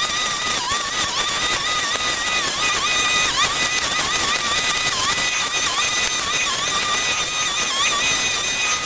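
Small petrol engine of a handheld power tool running at high revs. It gives a steady whine that dips briefly in pitch again and again as it bogs under load while cutting.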